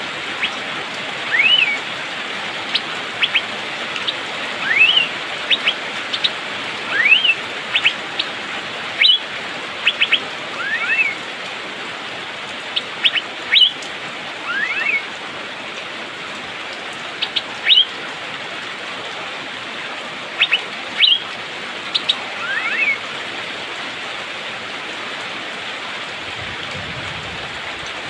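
Asian fairy-bluebird (cucak biru) calling: half a dozen rising whistled notes, each under a second and sliding up then dipping at the top, among short sharp high chips, until about 23 seconds in. A steady hiss of rain runs underneath throughout.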